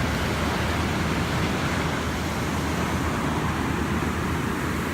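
Ocean surf rushing steadily, mixed with wind rumbling on the microphone.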